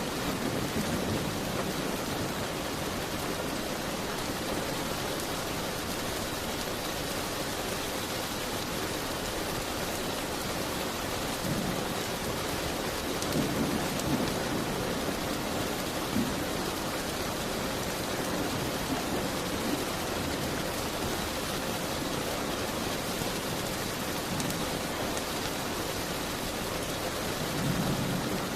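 Steady rain beating on a window pane, with a few brief low rumbles in the middle and near the end.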